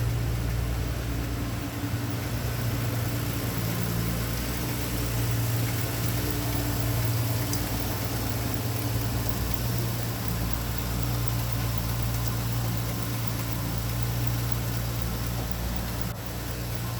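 2007 Ford Mustang's 4.0-litre SOHC V6 engine idling steadily.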